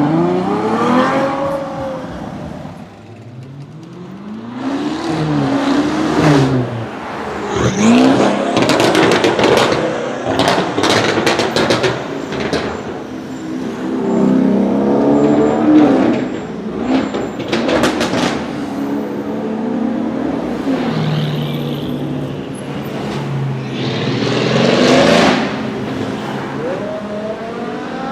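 High-performance car engines revving hard several times, the pitch climbing and dropping with each blip of the throttle. In the middle come a quick series of sharp exhaust pops and cracks.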